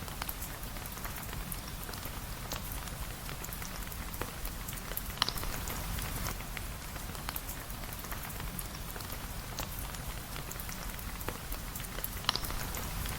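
Steady rain falling on a surface, full of fine pattering drops, with two sharper clicks, about five seconds in and near the end.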